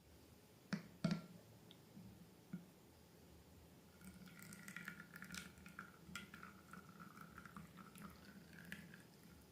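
Slime being handled: two light taps about a second in, then soft, wet, sticky crackling and small clicks from about four seconds in.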